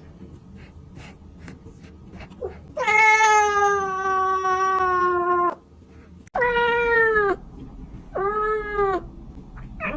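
A cat meowing. One long drawn-out meow starts about three seconds in and lasts nearly three seconds, slowly falling in pitch. Two shorter meows follow, and another begins at the very end.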